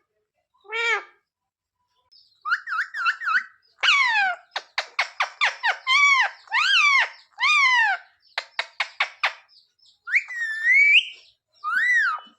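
Pet parrot calling: a string of short squawks and falling whistled calls broken up by runs of rapid clicking chatter, with a rising, wavering call near the end and a short arched call just after it.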